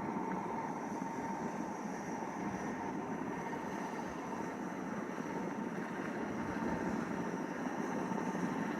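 Train at a railway station: a steady, unchanging mechanical noise with a thin steady tone above it.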